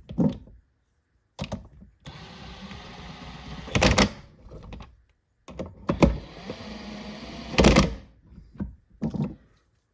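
Small cordless power tool motor running in short spells of a second or two, running bolts down, with several loud sharp clunks of metal parts in between.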